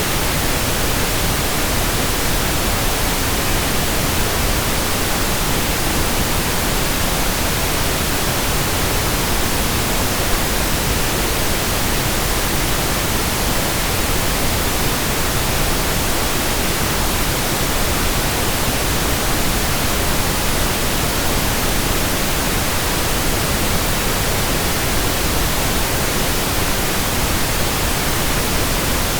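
Steady pink noise: an even, unchanging hiss with no other sound in it.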